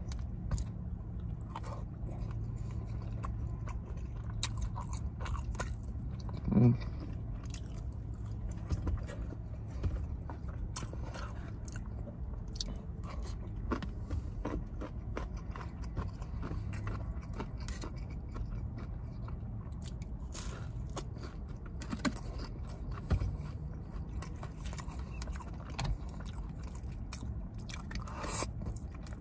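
Close-miked chewing and biting of orange chicken and chow mein noodles: wet lip and tongue clicks and crunches at an irregular pace, over a steady low hum inside the car. A brief, louder hum-like mouth sound stands out about six seconds in.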